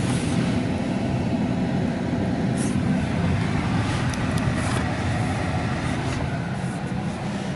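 Steady low rumble heard from inside a car's cabin in a car wash bay, with no clear start or stop.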